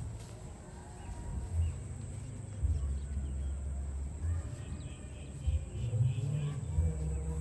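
A low, uneven outdoor rumble, with faint high chirps a little past the middle.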